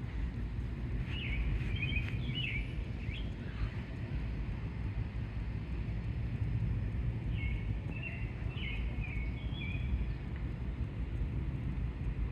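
A songbird singing short series of quick chirps, twice with a pause between them and once more near the end, over a steady low rumble.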